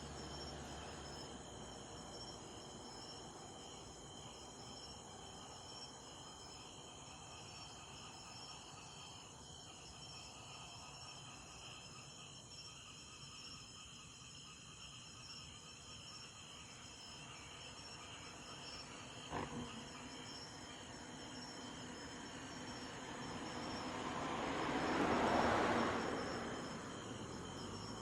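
Crickets chirping steadily in a high, even trill. Near the end something passes with a broad rushing noise that swells and fades over a few seconds, and there is one sharp click shortly before it.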